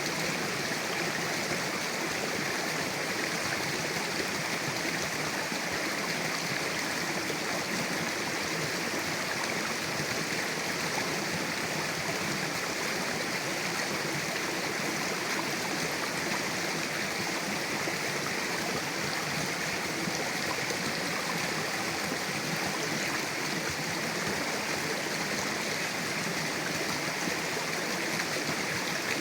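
Mountain river rushing steadily over rocks, a continuous even roar of running water.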